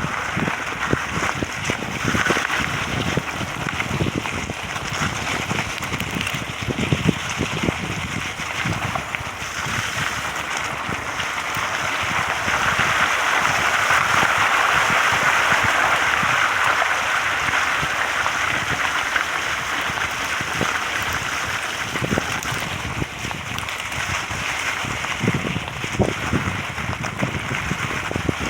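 Rushing water of a stream or waterfall, a steady hiss that grows louder through the middle, with irregular low buffeting and knocks on the microphone.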